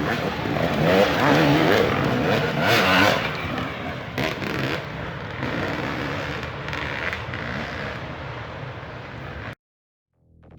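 Dirt bike engines revving, their pitch rising and falling, loudest at first and then fading. The sound cuts off abruptly about nine and a half seconds in.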